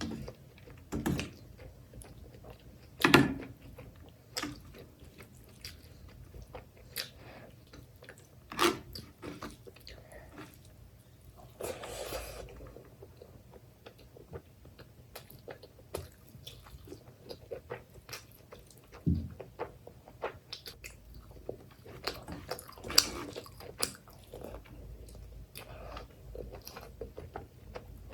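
Close-miked chewing and biting of mouthfuls of mutton curry and rice: irregular sharp mouth clicks and squelches, with a longer noisy sound about 12 seconds in.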